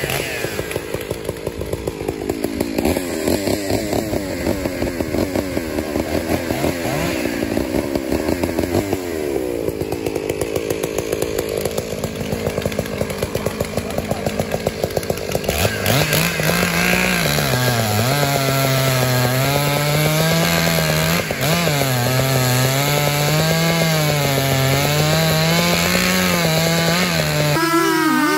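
Two-stroke chainsaw running hard and cutting wood. About halfway through, its engine note turns into a steady wavering pitch that rises and falls as the load changes.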